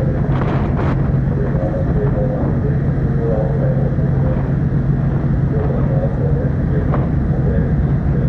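Ferry's engines running with a steady low drone.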